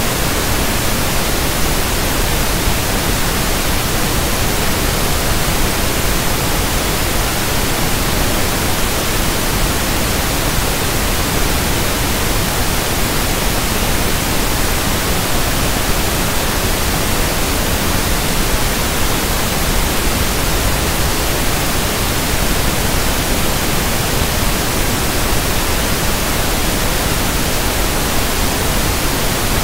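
Steady pink noise (1/f noise): an even, unchanging hiss spread across the whole range of pitch, with no events or changes.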